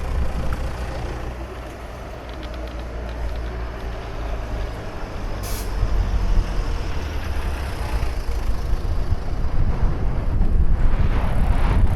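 A steady low rumble of passing traffic, with a short sharp hiss of heavy-vehicle air brakes about five and a half seconds in. The rumble grows louder towards the end.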